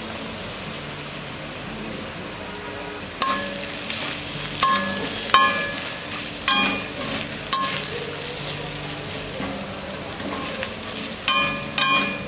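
Chopped onion, garlic and ground spices sizzling in oil in a steel kadhai while a spatula stirs and scrapes them. The spatula knocks against the pan about eight times, each knock ringing briefly.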